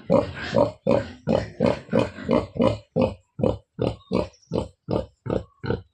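Pigs grunting in a quick, even rhythm, about three or four short grunts a second.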